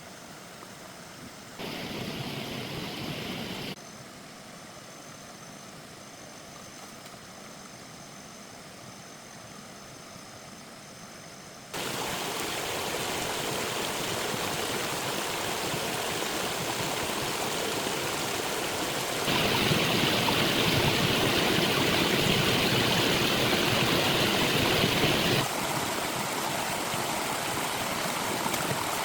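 Flowing stream or waterfall water, a steady rushing hiss that jumps abruptly in loudness several times: faint at first, much louder from about twelve seconds in, and loudest for a few seconds after that.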